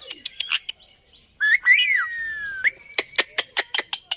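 Pet parrot chattering: a quick run of sharp clicking chirps, then a whistled call about halfway through that rises and then slides slowly down over about a second, then more rapid clicking chirps.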